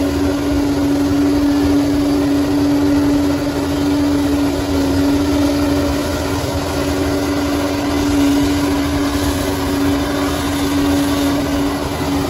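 Bulldozer diesel engine running steadily, with a constant whine held at one pitch over the rumble of the machine.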